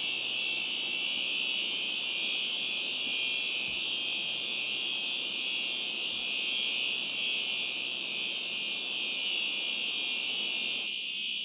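Hangar fire alarm sounding continuously as a steady high-pitched alarm, over a fainter even rush from the foam system discharging.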